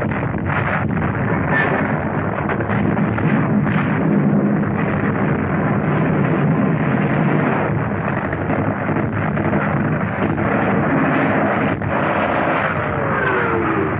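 Battle sound of continuous artillery fire and shell explosions, dense and unbroken, on a 1940s film soundtrack that cuts off all the high end. Near the end a falling whine passes over the din.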